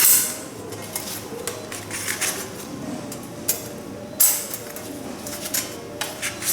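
Metal plates of a fire-pit secondary-combustion plate set clinking and knocking as they are handled and fitted together, in irregular strikes. The loudest strikes come at the very start and about four seconds in, with a brief metallic ring.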